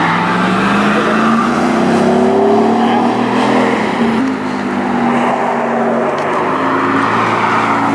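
Car engine running, its pitch rising over the first few seconds and then holding fairly steady with small shifts.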